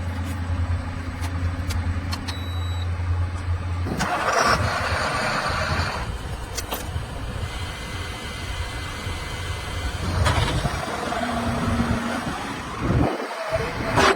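Heavy diesel engine running with a steady low hum, then louder rushes of noise about four seconds in and again about ten seconds in and near the end.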